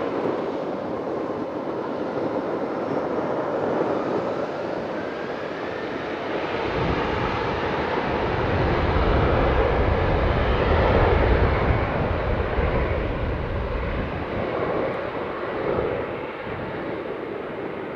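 Jet airliner's engines passing close by: a broad rushing sound that swells with a deep rumble, peaks partway through, then fades.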